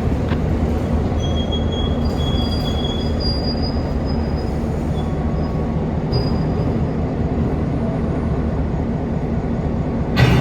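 Freight train rolling by with a steady rumble, its steel wheels giving faint, thin squeals on the rails now and then. A short sharp knock comes right at the end.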